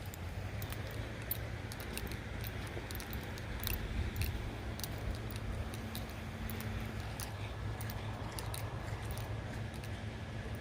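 Walking sounds on a trail: light, irregular clicks and small jingles several times a second over a low steady rumble.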